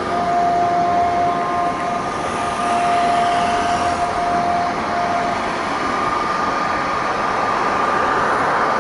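Airbus A350-900 jet airliner landing, its Rolls-Royce Trent XWB engines making a steady rush with a high whine. One whine fades out about five seconds in, while a higher one carries on.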